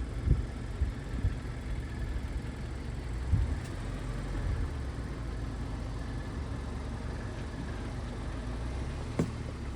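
Pickup truck with a camper driving, heard from inside the cab: a steady low engine and road rumble, with a few short knocks about three seconds apart and once more near the end.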